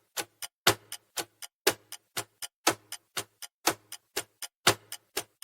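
Countdown-timer sound effect ticking like a clock: about four ticks a second, with a louder tick once every second.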